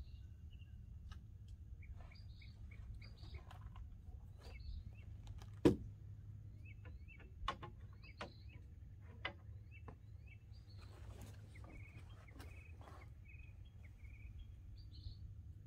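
Birds chirping and calling in short, repeated high notes over a steady low background rumble. A few sharp clicks break through, the loudest about six seconds in.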